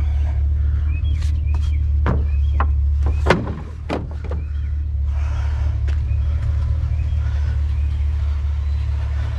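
Steady low vehicle rumble with birds chirping, and a few sharp clicks and knocks with one thump a little past the middle.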